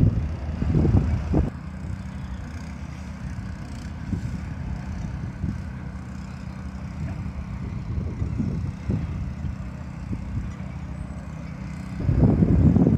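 An engine running steadily at idle, a low even hum. Gusts of wind rumble on the microphone at the start and again near the end.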